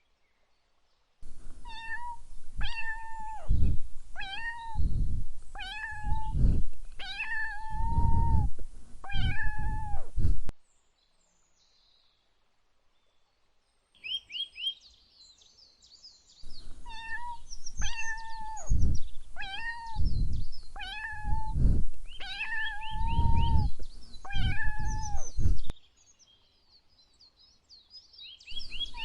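Cat meowing over and over, one loud meow about every second and a half in two runs of about six, with a few seconds of quiet between them: food-begging meows from a hungry cat. A brief flurry of short high chirps comes between the two runs.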